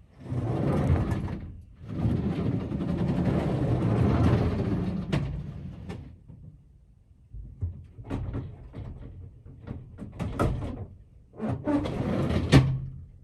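Typhoon wind gusting against an old wooden house in long rushing surges, then shorter gusts in the second half with sharp knocks and rattles from the sliding storm shutters.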